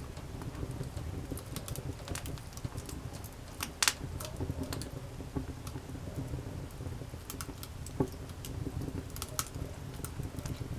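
Wood campfire crackling with irregular sharp pops, two louder ones about four and eight seconds in, over a low steady rumble.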